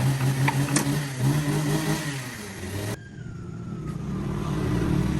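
An engine running steadily, with a few sharp clicks in the first second. The sound cuts off abruptly about three seconds in, and a lower rumble slowly builds after it.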